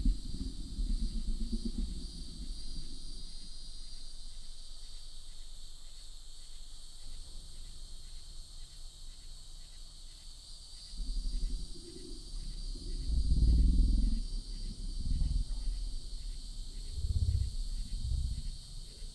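Low calls from an unidentified animal, coming in several separate bouts, louder in the second half, over a steady high-pitched insect chorus. The calls resemble a big cat's but have not been identified.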